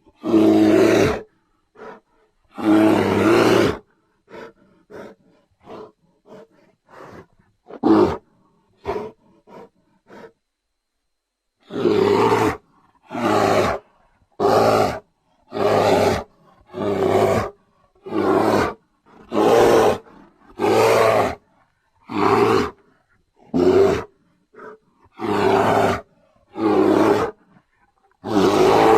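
Creature sound effects for a giant prehistoric bear: two long roars, then a string of short, quieter grunts, a brief pause, and then a steady series of short roars about one a second.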